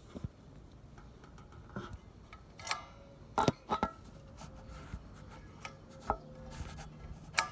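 Small engine's choke and throttle linkage being worked by hand, giving a few separate clicks and knocks at irregular spacing, the sharpest about halfway through and near the end.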